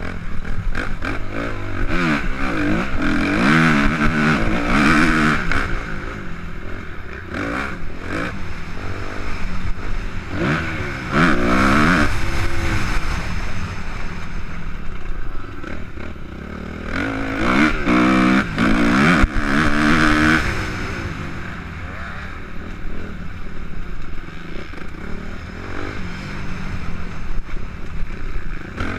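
Suzuki RM-Z 250 four-stroke single-cylinder motocross engine under hard riding, its pitch climbing and falling as the throttle opens and closes, with three strong surges of revs. Short rattling knocks from the bike over the rough track run throughout.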